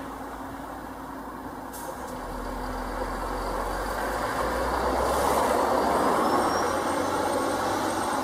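Stadler FLIRT multiple unit approaching along the track, its running noise growing steadily louder as it nears, with a faint whine rising in pitch in the second half.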